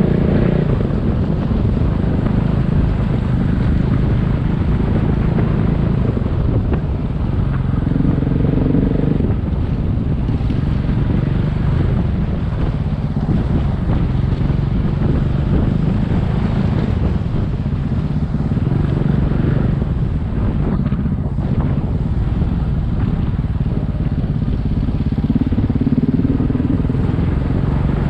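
Single-cylinder dual-sport motorcycle engine running under way, its pitch rising and falling several times with the throttle.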